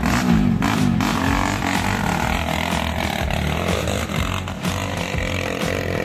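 Dirt bike engine revving on a trail, its pitch rising and falling sharply in the first second, then held under throttle with a wavering pitch.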